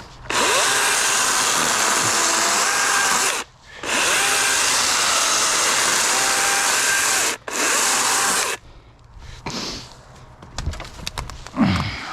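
DeWalt 60-volt brushless battery chainsaw with a 16-inch bar, cutting logs: a steady high-pitched whine of motor and chain that stops briefly twice, then goes quiet about two-thirds of the way through, followed by a few knocks.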